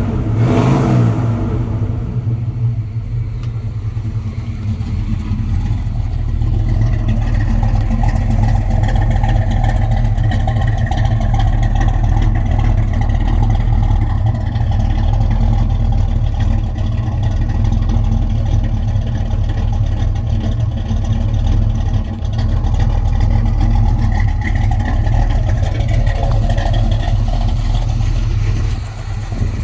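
Chevrolet 468 big-block V8 in a 1971 C10 pickup running, revved briefly about a second in. It then settles into a steady, deep running note.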